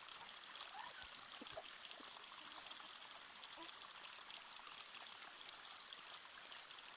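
Faint steady rushing of flowing water, like a stream, with a thin steady high tone over it and a few brief faint calls.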